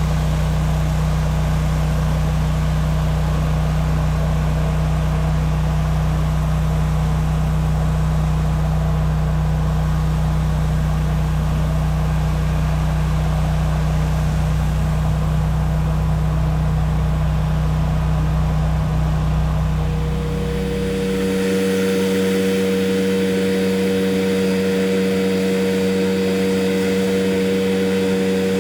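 Pressure washer's engine running steadily. About 20 seconds in the sound changes abruptly to a higher steady hum with more hiss.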